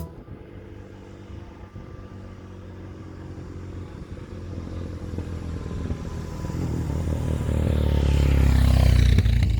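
Motorcycle engine running, growing steadily louder over several seconds as it draws near, with a shift in pitch near the end.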